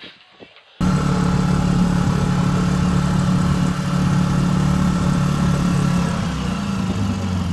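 Sailing yacht's outboard motor running steadily, cutting in abruptly about a second in; its speed eases slightly near the end.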